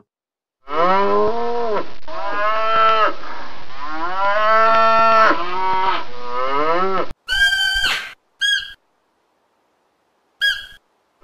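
Cattle mooing: a run of drawn-out moos that swell and fall in pitch for about six seconds. Then three short, high-pitched calls from another animal, two close together and one a couple of seconds later.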